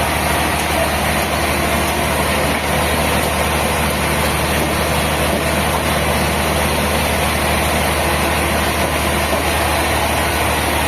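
A heavy engine running steadily at idle, an even low hum with no change in speed.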